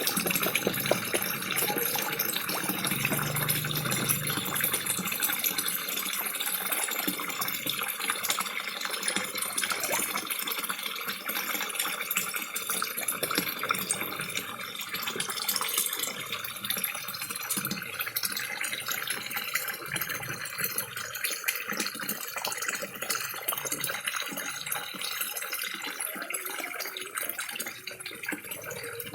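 Small waterfall splashing steadily into a koi pond, with a scatter of fine clicks and smacks from koi feeding in a crowd at the surface.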